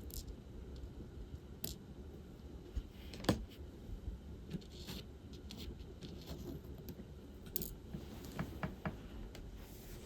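Scattered small plastic clicks and light rattling of diamond painting work: resin drills, the applicator pen and the bead tray being handled. One sharper click comes about a third of the way in, and a few quick clicks come near the end.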